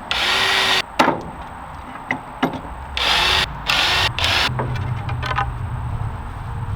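Power drill boring pocket holes into a wooden board, run in short bursts: one of nearly a second at the start, then three quick bursts around three to four and a half seconds in. A sharp click about a second in, and a low steady hum in the last couple of seconds.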